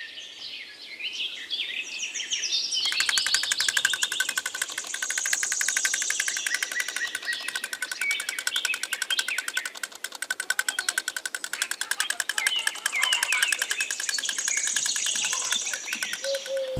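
Birds chirping. About three seconds in, a continuous, very rapid buzzing pulse joins them and keeps on underneath the chirps.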